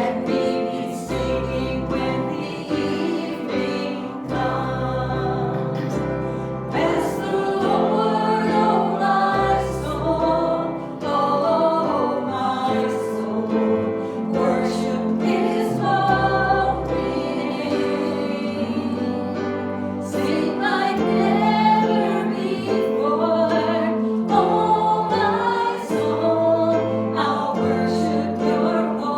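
Congregational worship singing: voices singing a gospel song together over a band with steady bass notes and a regular beat.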